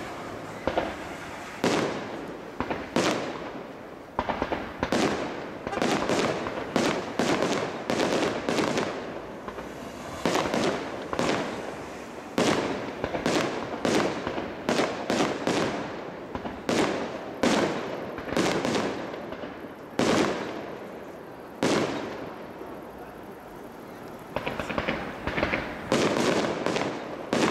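Large fireworks display: aerial shell bursts going off in quick succession, a sharp bang every second or so, each trailing off in an echo. Near the end comes a fast cluster of bangs and crackle.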